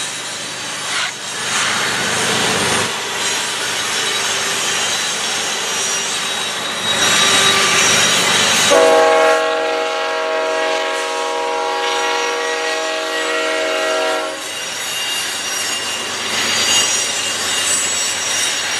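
Freight train passing, its wheels squealing high on the rails. About nine seconds in, the locomotive horn sounds one long chord for about five seconds, then cuts off.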